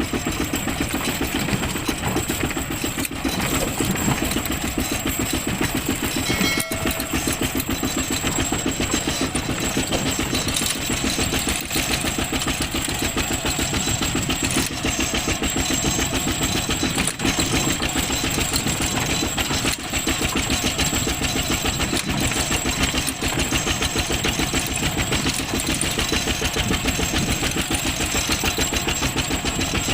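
ZT155 tractor engine running steadily under way, with a fast, even beat.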